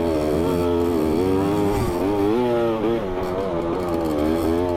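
Dirt bike engine running under way, its revs rising and falling about once a second as the throttle is worked.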